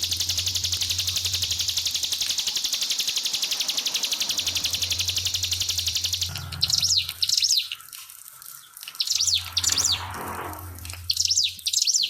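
A ciblek pinus songbird singing in rapid-fire style: a fast, buzzy high trill for about six seconds, then three short bursts of sharp high chirps. Trickling water runs faintly underneath.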